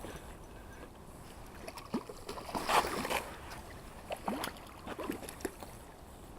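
Water splashing and sloshing in a few short bursts, the loudest a little under halfway in.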